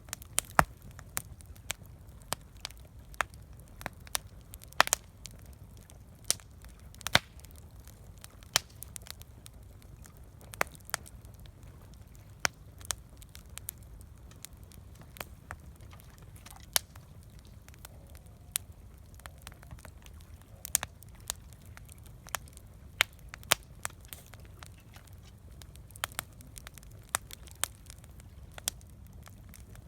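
Campfire crackling: irregular sharp snaps and pops from burning wood, a couple a second, over a low steady rumble.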